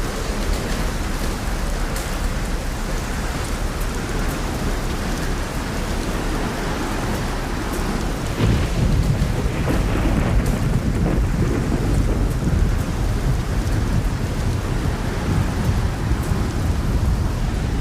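Steady light rain and wind, with a low roll of thunder that swells about halfway through and rumbles on for several seconds.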